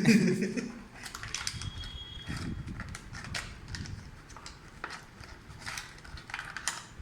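A thump at the start, then scattered small clicks and rustles of packaging and earphones being handled during unboxing.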